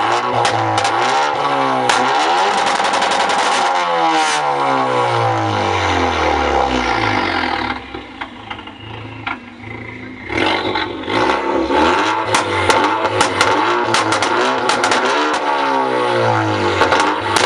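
A car engine revving up and down several times, its pitch climbing and then falling away. It drops to a quieter low rumble about eight seconds in, then revs up again.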